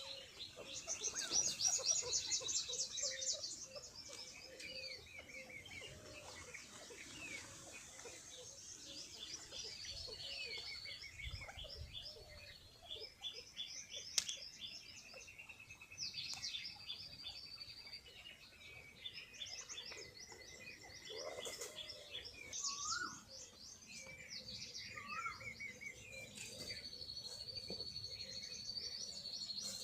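Several small birds chirping and trilling at once, with rapid high twittering calls overlapping throughout; loudest about two seconds in.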